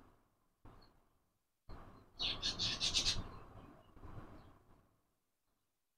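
A bird chirping, a quick run of high repeated chirps lasting about a second, over faint low background noise.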